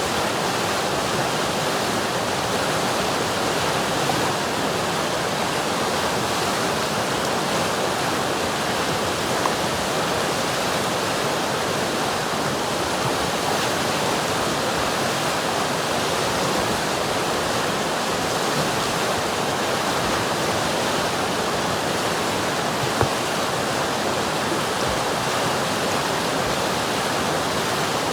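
River water rushing steadily, an even roar of flowing water with no changes.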